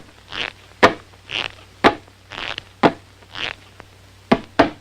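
Cartoon sound effect of Pluto sniffing loudly and rhythmically: short breathy sniffs alternating with sharp clicks, about one of each a second, with two quick clicks near the end.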